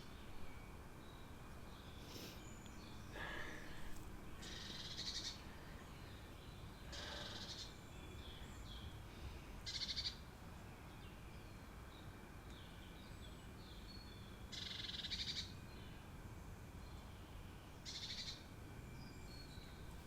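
Woodland birds singing: one bird repeats a short, high trilled phrase every four to five seconds, with other small chirps and calls in between.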